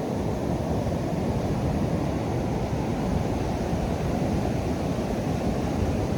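Atlantic surf washing up the beach at the water's edge, a steady rush of noise with no distinct breaks.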